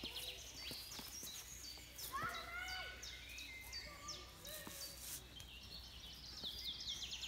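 Songbirds singing, with rapid high trills repeated several times and scattered chirps, over a steady low background hum.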